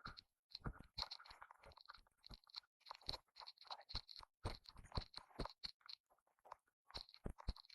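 Faint, irregular crunching and scraping, many quick crackles in close succession.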